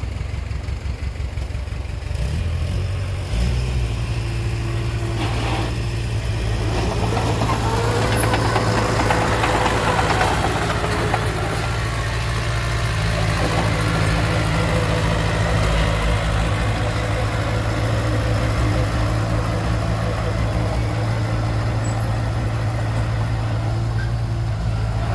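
Heavy diesel engine of earth-moving equipment running steadily; its speed and level rise about two to three seconds in and then hold.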